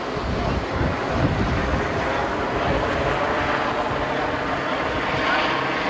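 A helicopter's engine and rotor drone, steady throughout.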